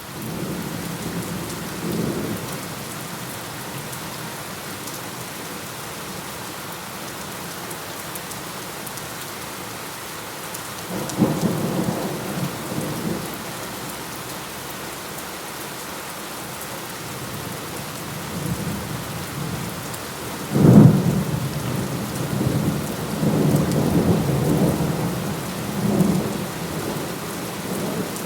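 Steady heavy rain hissing, with thunder: a low rumble about two seconds in, a louder one around eleven seconds, then a sharp thunderclap about twenty seconds in followed by several seconds of rolling rumbles.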